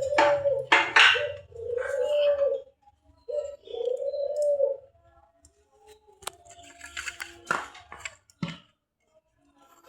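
A dove cooing in a series of short, arching notes over the first five seconds, then scattered clicks and knocks.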